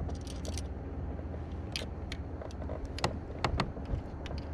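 Scattered light clicks and taps of gear being handled, over a steady low rumble.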